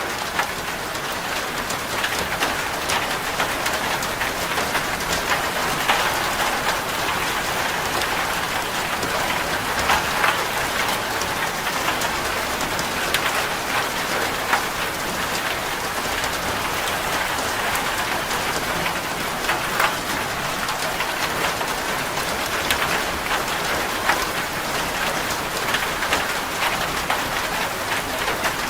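Steady rain falling on a corrugated zinc roof, a dense patter with many individual drops striking sharply and irregularly against the metal.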